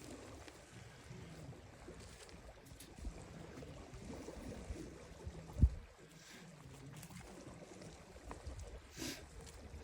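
Wind rumbling on the microphone outdoors, with a single dull thump a little past halfway.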